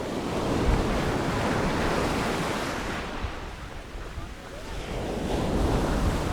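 Sea waves breaking and washing up the beach, swelling twice, with wind rumbling on the microphone.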